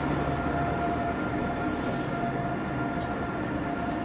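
Double-deck coaches of a locomotive-hauled regional train rolling past along a platform: a steady rumble of wheels on rail with a steady high whine over it.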